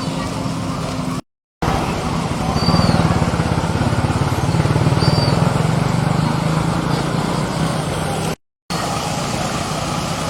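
A motor vehicle engine running steadily, growing louder through the middle and easing back, cut to silence twice for a moment.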